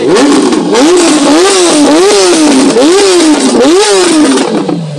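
Kawasaki Ninja ZX-10R's inline-four, fitted with an aftermarket exhaust, revved hard while standing still: about five quick throttle blips in a row, each rising and falling in pitch, settling back near the end.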